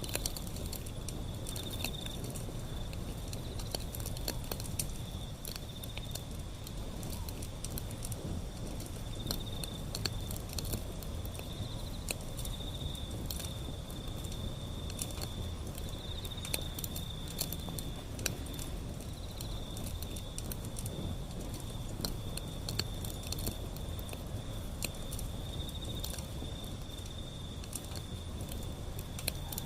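Wood fire burning, with frequent sharp crackles and pops over a low steady rumble. A steady high trill that swells and fades every second or two runs under it.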